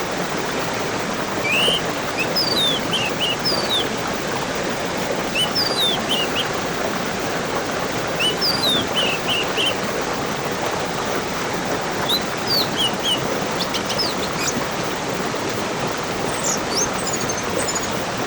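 Steady rush of flowing water, with a songbird singing short phrases of quick high chirps every few seconds over it.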